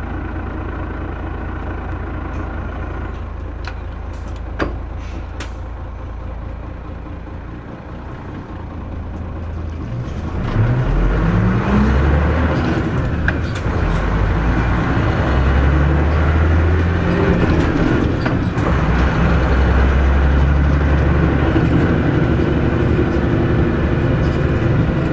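Mitsubishi Fuso New Aerostar (KC-MP317M) bus engine heard from inside the cabin: a low, even running sound with a sharp click about four and a half seconds in. About ten seconds in, the engine picks up and gets louder, its pitch rising and falling back several times as the bus accelerates away through the gears.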